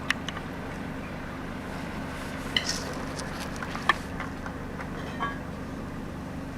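CM-800 multi-rip edging saw running with a steady hum, with a few sharp knocks, the loudest about four seconds in.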